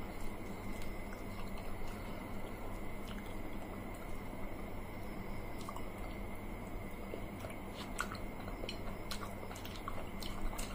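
Close-up eating sounds of two people eating watered rice and fried fish with their fingers: chewing and wet squishing, with small scattered clicks that come more often near the end, over a steady background hiss.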